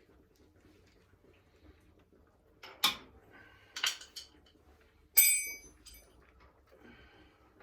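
Metal tools or parts being handled: a sharp knock about three seconds in, a couple more about a second later, then a louder metallic clink that rings briefly.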